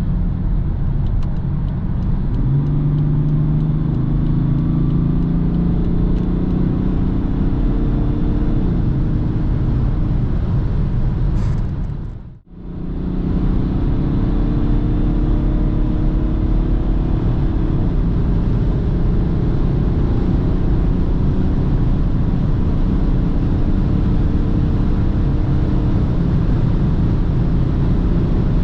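BMW 330d's 3.0-litre straight-six diesel running hard at high speed under a steady road rumble, its note climbing slowly as the car accelerates. The sound cuts out briefly about twelve seconds in.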